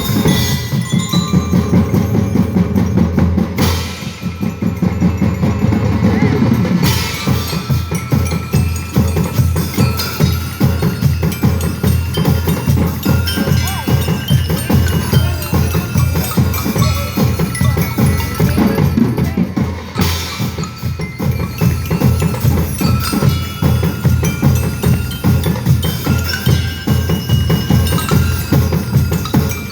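Band music from drums and percussion keeping a steady beat, with a bell-like melody ringing above. It eases off briefly about four seconds in and again around twenty seconds in.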